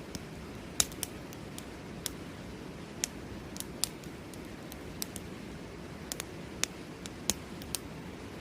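Campfire wood crackling, with sharp irregular pops and snaps over a steady low rushing sound of river water.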